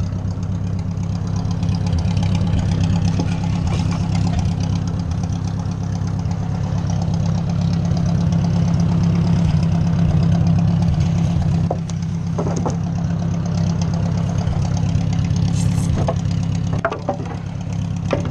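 Ford 600 tractor engine running steadily and working harder for several seconds while the loader bucket pushes. A few sharp knocks come in the last seconds.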